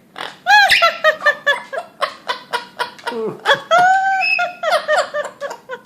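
Pet bird giving a rapid run of short, high, laughter-like chattering calls, several a second.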